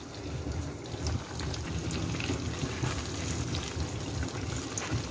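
Breaded banana slices deep-frying in hot oil, a steady bubbling sizzle with scattered small crackles.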